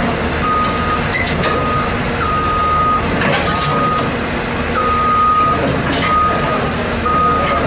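Heavy vehicle's reversing alarm beeping, a steady single-pitched beep repeating about once a second, over the low running of a diesel engine, with occasional short metallic clanks.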